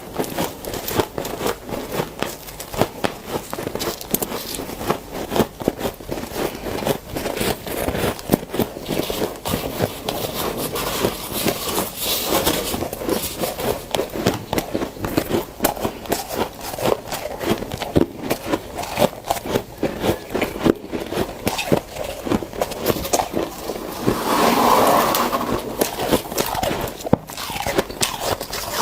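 Dry, powdery deep-freezer frost being scraped up by hand and crunched, heard as a dense run of small crackles and crunches. The sound grows louder and fuller for a couple of seconds near the end.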